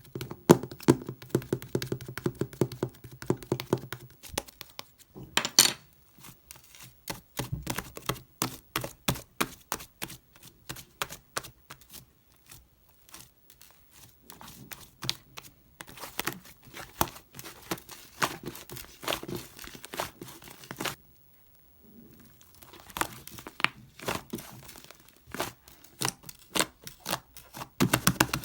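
Hands squishing, stretching and poking a soft, fluffy, sticky slime, making rapid crackling and popping clicks in bursts with short pauses between them.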